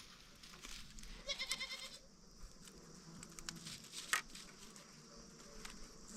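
A short, wavering animal bleat about a second in, lasting about half a second. A sharp knock follows a few seconds later.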